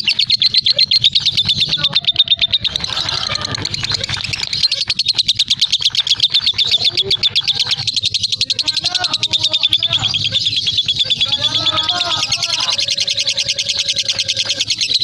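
Lovebird in full 'ngekek' song: a long unbroken, high-pitched chattering trill of rapid, evenly repeated notes.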